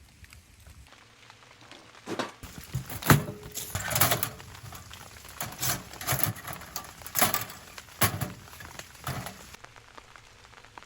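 Firewood being worked by hand: a string of knocks and rasping strokes, roughly one every half second to a second, for about seven seconds.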